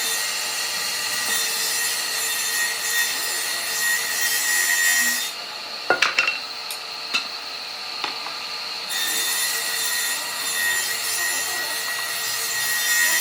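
A tool abrading wood in two runs of about five and four seconds, a steady gritty hiss with a thin whine. In the pause between them come a few sharp knocks.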